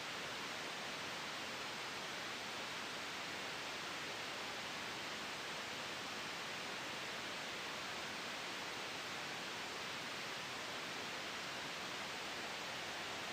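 Steady white noise made for sleep: an even, unbroken hiss, strongest in the upper range, with no swells or changes.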